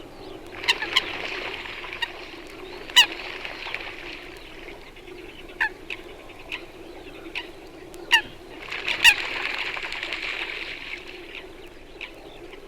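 Eurasian coots calling and chasing each other across open water: about eight sharp, loud single calls, with two long rushes of splashing as the birds run and beat over the surface, one near the start and one past the middle.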